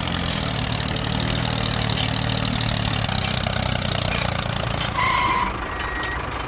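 A vehicle engine idling steadily, dying down about four seconds in. Reversing beeps start about five seconds in.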